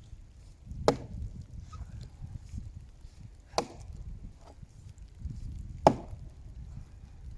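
Axe strikes into the trunk of a dead, well-seasoned tree: three hard blows, roughly two and a half seconds apart.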